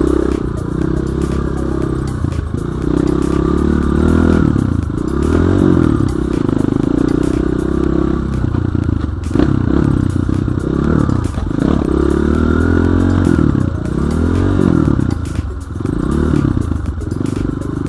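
BSE J1 enduro dirt bike's engine revving up and down over and over as it is ridden off-road, with scattered clattering knocks from the bike over rough ground.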